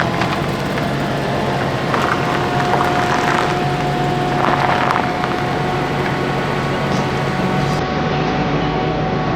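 A vehicle engine running steadily, with faint voices in the background.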